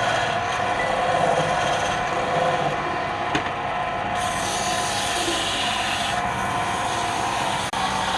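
A tool rubbing steadily against wood turning on a wood lathe, a continuous scraping over the lathe's running hum, with a brief drop in level near the end.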